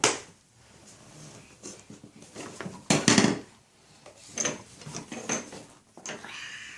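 Toy train set pieces knocking and clattering as a toddler handles them: a sharp knock at the start, a louder burst of clatter about three seconds in, and lighter clicks in between.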